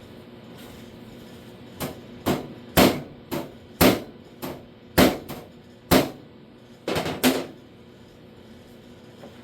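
Hammer tapping on a steel car door panel: about a dozen sharp strikes at an uneven pace over some five seconds, each ringing briefly.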